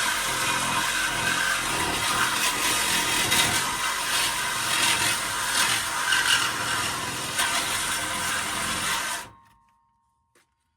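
A power tool cutting through the exhaust pipe: a harsh, steady cutting noise that stops abruptly about nine seconds in.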